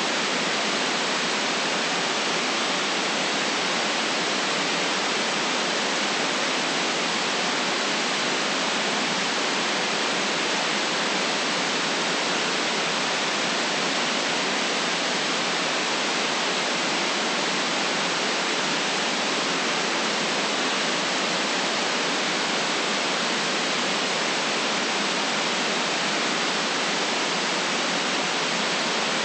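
Steady electronic white noise: an even, unchanging hiss with no deep rumble beneath it.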